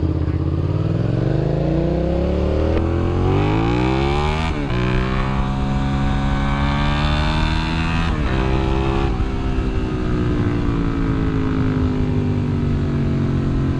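Sport bike engine accelerating through the gears: its pitch climbs, drops at upshifts about four and a half and eight seconds in, then falls slowly as the throttle eases off.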